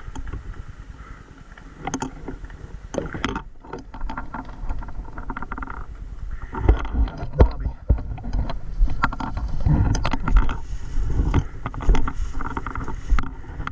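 Dirt bike engine running and revving unevenly, mixed with low wind buffeting on the microphone and scattered knocks.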